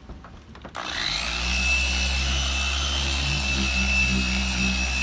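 A power tool's electric motor switches on about a second in, spins up with a rising whine and runs steadily at speed.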